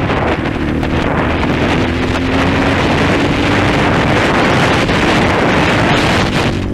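A 230 cc dirt bike's engine running steadily while riding, with heavy wind buffeting the microphone over it.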